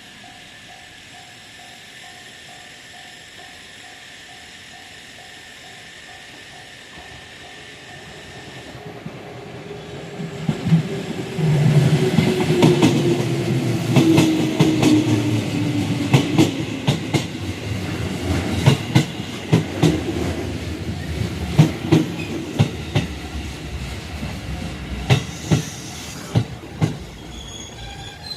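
Japanese railroad crossing bell ringing with a steady repeating clang. About ten seconds in, a JR West 221 series electric train passes: a loud rumble with a slowly falling tone and runs of sharp clacks as the wheels cross the rail joints, fading near the end.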